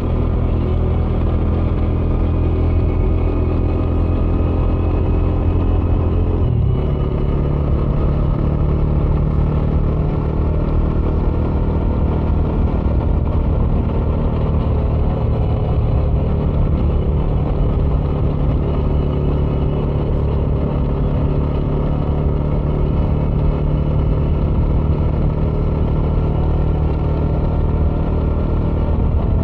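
Bajaj Dominar 400's single-cylinder engine running on the move through its stock exhaust, a steady loud note. About seven seconds in it dips briefly, then settles at a slightly higher pitch.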